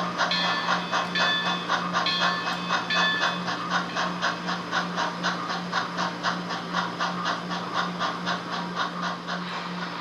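An HO scale model steam locomotive's sound-decoder speaker playing steam chuffing at about five beats a second, fading gradually, over a steady low hum. A repeating high ringing tone sounds over the chuffs for the first three seconds or so.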